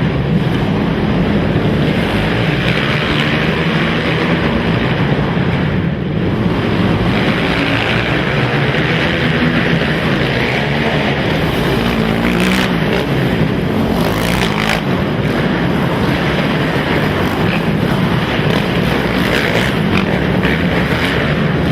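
Several racing ATV engines running hard and loud together, their pitch wavering up and down as the riders work the throttles.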